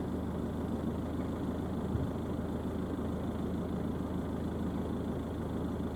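Car engine idling steadily, heard from inside the stationary car.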